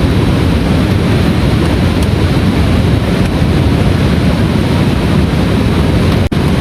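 Heavy rain falling steadily and loudly, a dense continuous patter. The sound cuts out for an instant near the end.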